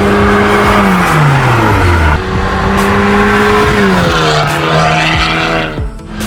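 Honda Civic RS's 1.5-litre turbocharged four-cylinder running through an aftermarket XEX full-system sport exhaust, held at high revs with a steady note. The pitch falls away about a second in, comes back up, and dips and rises again near the end.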